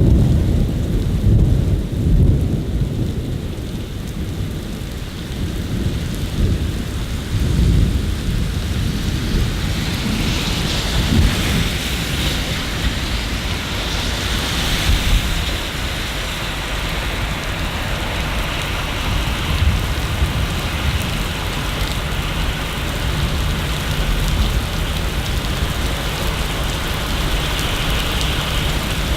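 Steady rain with a low rolling rumble of thunder in the first several seconds that dies away. The rain hiss then grows heavier from about a third of the way in.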